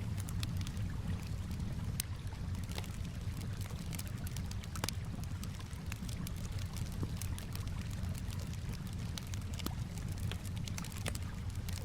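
Campfire crackling, with many irregular sharp pops and snaps, over gently lapping water and a steady low rumble.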